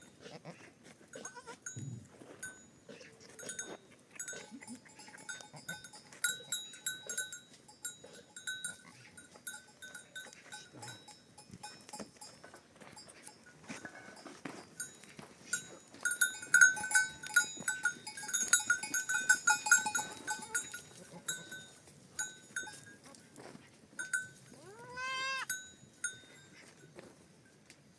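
Flock of goats and sheep with bells on their necks: the bells jingle and clink on and off, busiest in the middle, and one animal bleats once near the end.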